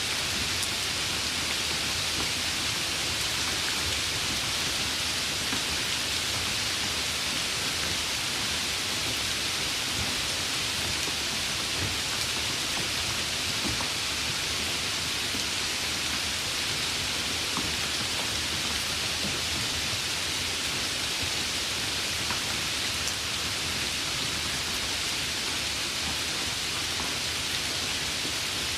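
Steady rain falling: an even hiss with a few faint, sharper drop ticks here and there.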